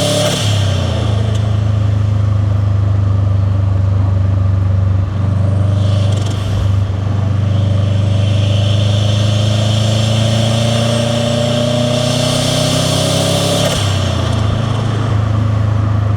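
Subaru WRX STi's turbocharged flat-four boxer engine pulling through the gears under acceleration, its pitch climbing steadily and dropping at a gear change just after the start and again about 14 seconds in, with turbo and intake hiss over the exhaust rumble.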